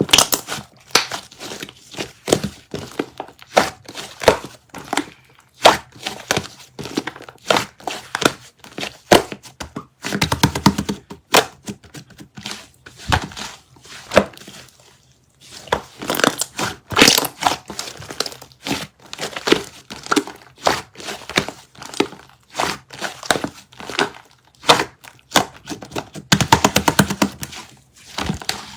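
A white sticky squishy toy (jjindeugi) being squeezed and pulled apart by hand. It makes irregular sticky clicks and crackles, with two spells of rapid, fine crackling as the tacky surfaces peel apart, about ten seconds in and again near the end.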